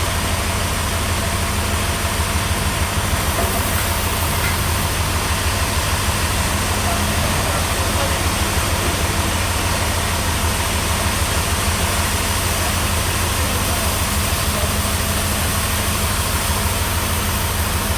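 Heavy sawmill machinery running steadily: a deep, fast throb with constant noise over it.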